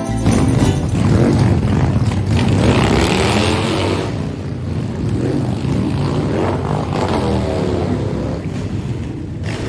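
Motorcycle engines running, their pitch rising and falling several times.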